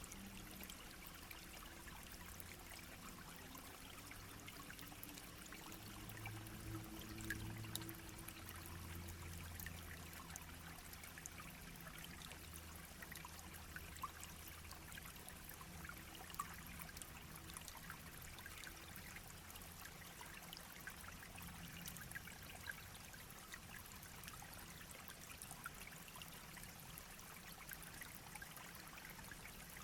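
Small brook babbling and trickling steadily over stones, with scattered small splashes. A faint low drone swells in the background from about six to ten seconds in.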